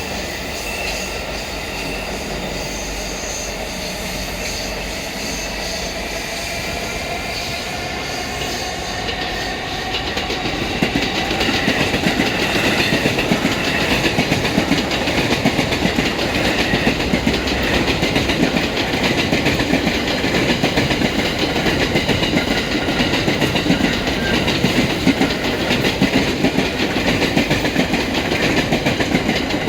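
Electric commuter train passing a level crossing: a steadier approach, then about ten seconds in it grows louder into a rapid clickety-clack of wheels over rail joints as the cars go by.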